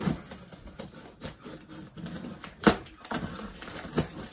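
Cardboard shipping box being opened and handled: irregular knocks, clicks and rustles of cardboard, with one sharp knock about two and a half seconds in.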